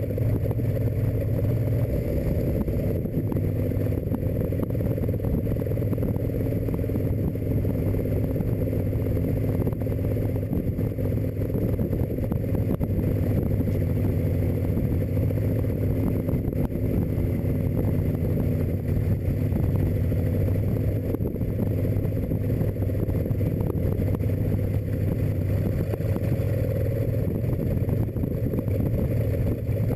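Dodge Brothers rat rod's engine, fed by a home-built intake and Stromberg carburettors, running steadily at cruising speed.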